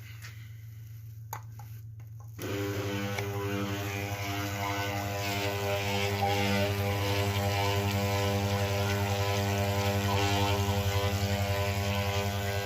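Malysh submersible vibration pump switched on about two seconds in, after a couple of clicks: a loud, steady electric buzz with a strong mains-rate hum and many overtones, with a hiss over it.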